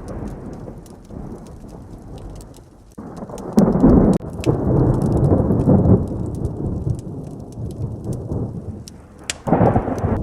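Thunderstorm with heavy rain. A loud thunderclap breaks in about three seconds in and rumbles on for a few seconds, and another roll of thunder swells near the end, over steady rain.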